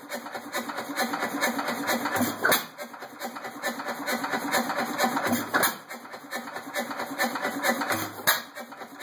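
1913 Myrick 4 hp hit-and-miss oilfield engine running, firing three times about every three seconds with a steady rapid clatter in between as it coasts.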